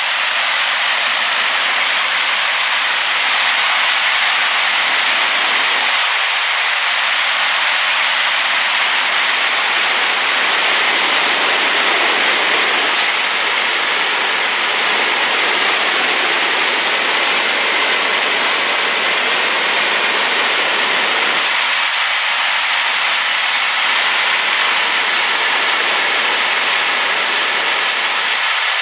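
Large waterfall in spate after rain, its falling water making a loud, steady rushing noise.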